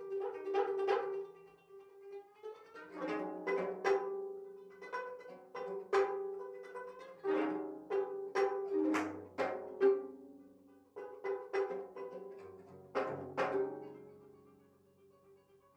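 Sanjo gayageum, the twelve-string Korean zither, played solo: single plucked notes and short quick figures, each ringing and decaying. Near the end the playing dies away almost to quiet.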